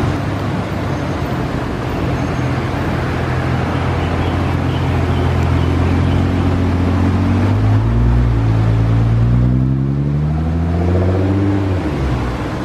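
Nissan GT-R R35's twin-turbo V6 running at a low, steady note as the car rolls out, then revving up as it accelerates away about eight seconds in, the pitch climbing for a few seconds before it drops off near the end.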